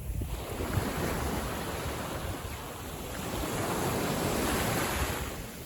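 Small sea waves washing in, a noisy wash that swells twice and fades near the end, with wind rumbling on the microphone.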